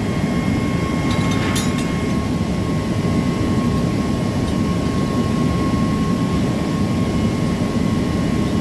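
Steady loud drone of running industrial machinery with a constant high whine over it, and a brief cluster of sharp metallic clicks about one and a half seconds in.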